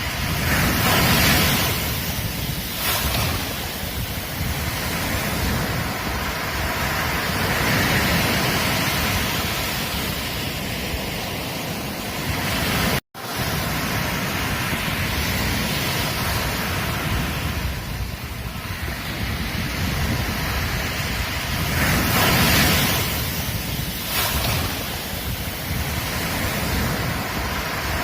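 Ocean waves washing onto a beach: a steady rush of surf that swells and eases every few seconds. The sound drops out for an instant about halfway through.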